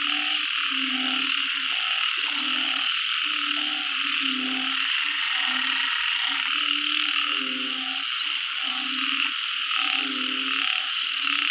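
A chorus of narrow-mouthed frogs calling in floodwater after heavy rain: low, short calls repeat about once a second, several frogs overlapping, over a steady high-pitched hiss.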